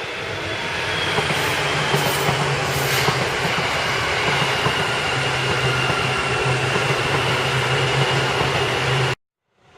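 Seibu Railway electric train running past close by: loud rolling noise with a high, slightly falling whine and a low hum, and a few clacks early on. It cuts off abruptly near the end.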